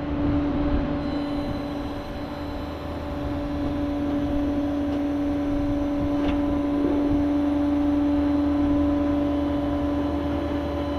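Flatbed tow truck's hydraulic pump whining at one steady pitch over the low rumble of the truck's engine.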